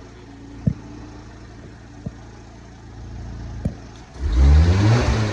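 Car engine surging loudly about four seconds in, its pitch then falling back, after a low steady hum with a few sharp isolated clicks. The owner says the engine makes a valve-tapping noise that shows up as soon as it is started and grows with revs.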